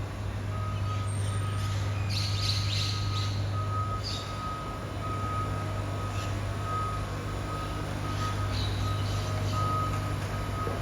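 BYD electric garbage truck's reversing beeper sounding a repeated tone over the truck's steady low hum, with a few short hisses.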